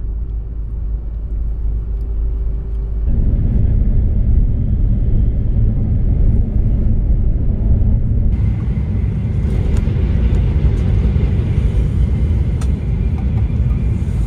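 Joetsu Shinkansen high-speed train running, a steady low rumble heard inside the passenger cabin; it gets louder about three seconds in.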